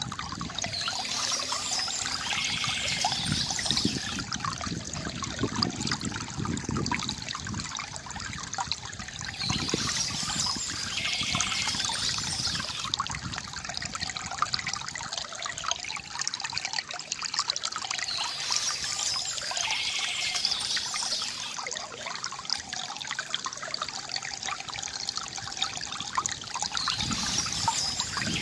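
Water from a bamboo fountain trickling and pouring steadily. A spell of high bird chirping returns about every nine seconds.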